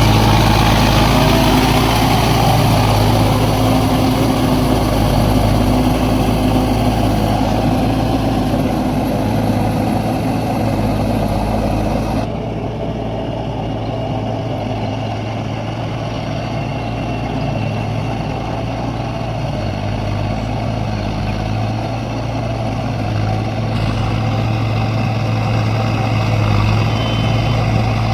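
Mahindra 605 Di-i tractor's four-cylinder 3531 cc diesel engine running steadily. The sound turns duller and slightly quieter about twelve seconds in.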